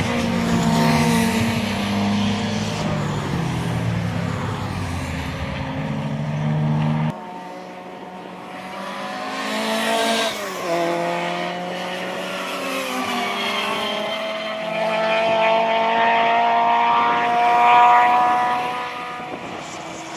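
Rally car engines revving, with the sound changing abruptly about seven seconds in. In the second half an engine's pitch climbs steadily as a car accelerates.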